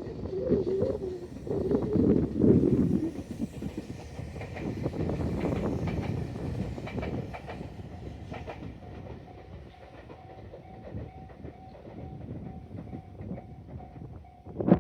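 Tobu Isesaki Line train running past at Agata Station, loudest in the first three seconds, its wheels clicking over the rail joints as the sound fades away. From about nine seconds in, a faint repeating tone sounds steadily.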